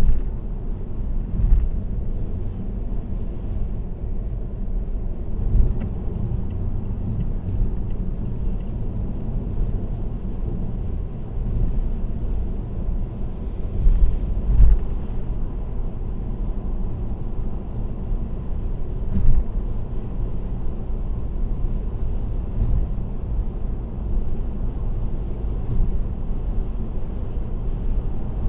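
Steady low road and tyre rumble of a car cruising on an expressway, with a brief thump every few seconds.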